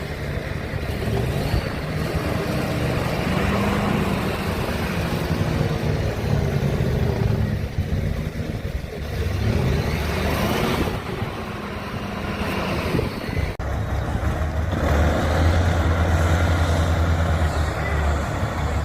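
Off-road trial truck engine running under load and revving, its pitch rising and falling, with a sudden brief break about two-thirds of the way through.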